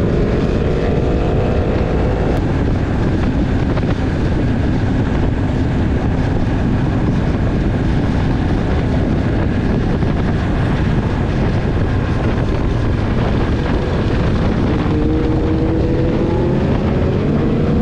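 Sport motorcycle engine running at speed under a heavy rush of wind noise. The engine pitch climbs at the start, breaks off about two seconds in, and climbs again near the end as the bike accelerates.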